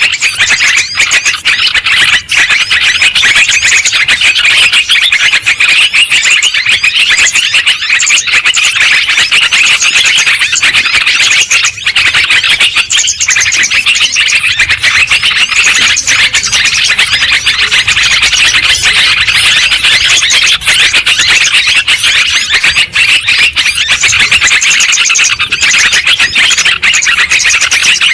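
A flock of yellow-vented bulbuls chattering noisily: a loud, dense, unbroken chorus of quick overlapping chirps and calls.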